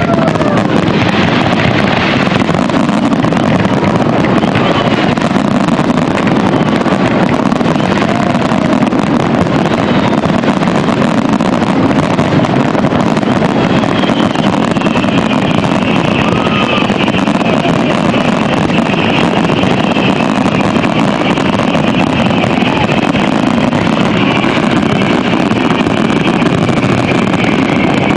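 Steady engine noise with no firework bursts, a continuous rumble that holds an even level throughout.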